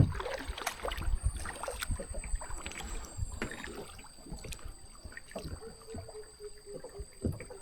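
Kayak paddling: paddle blades dipping and splashing, water dripping, and scattered light knocks at irregular moments.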